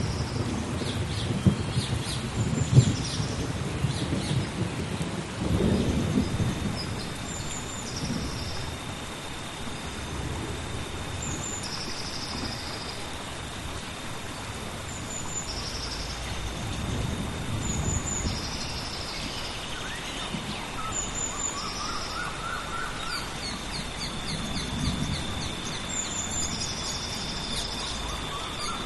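Tropical rainforest rainstorm: steady rain with rolling thunder, loudest at the start and rumbling again several times. Birds call in repeated short high chirps throughout, over a thin steady high tone.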